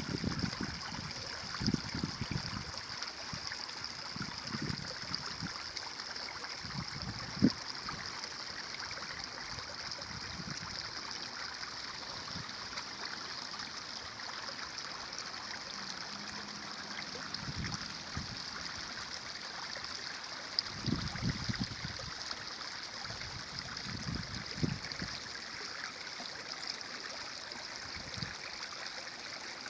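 A stream running and trickling with a steady rush of water. Brief low gurgles or thumps come every few seconds, and a single sharp click sounds about seven seconds in.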